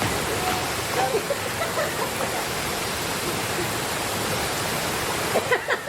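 Waterfall and river water rushing, a steady, even hiss with no let-up.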